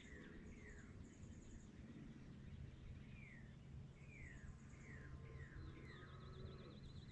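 Faint dawn birdsong: a songbird repeating short down-slurred whistles, with thin high trills from other birds and a fast trill near the end.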